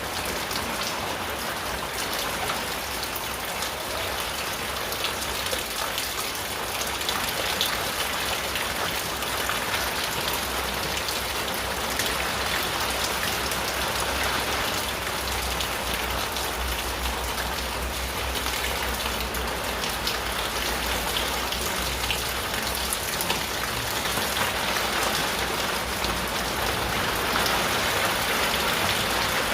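Steady rain drumming on a tin roof, a dense patter of drops over a constant hiss. A low rumble swells through the middle.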